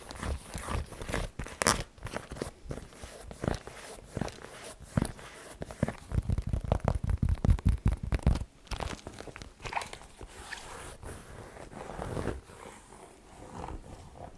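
Fast tapping and scratching on an object, a dense run of quick clicks and scrapes, heaviest and deepest from about six to eight and a half seconds in.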